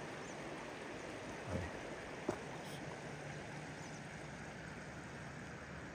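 A stream running steadily over rocks, with a brief low thump about a second and a half in and a short click a moment later.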